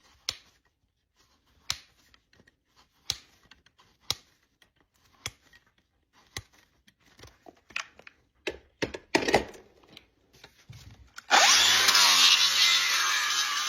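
Sharp clicks about once a second, then about eleven seconds in a power tool starts abruptly and runs steadily and loudly, used in trimming a draft horse's hoof.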